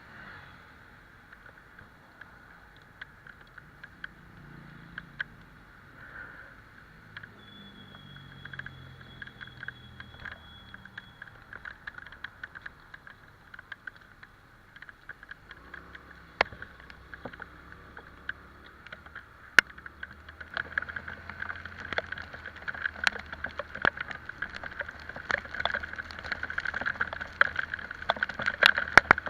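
Italika Vitalia 125 scooter riding in the rain: a steady hiss of rain and wet road, with many sharp ticks of raindrops striking the microphone that grow denser and louder in the second half. A low engine drone from the 125 cc scooter comes in about halfway through.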